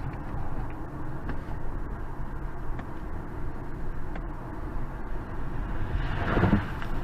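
A car's engine and road noise picked up by a dash cam as it drives, a steady rumble. There is a brief louder noise about six seconds in.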